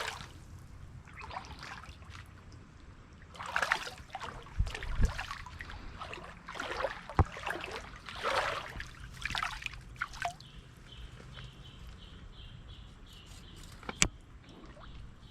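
Shallow creek water splashing and sloshing in several irregular bursts as a hooked smallmouth bass is handled at the water's edge, with a few dull knocks and a sharp click near the end.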